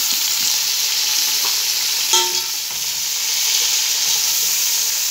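Onions, freshly added tomato pieces and green chillies sizzling loudly in hot oil in an aluminium pot while a metal ladle stirs them. A short metallic clink of the ladle against the pot comes about two seconds in.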